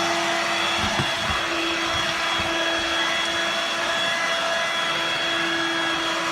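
Hoover Dirt Devil Vibe corded stick vacuum running in floor mode with its rotary brush engaged: a steady motor whine over an even rush of air.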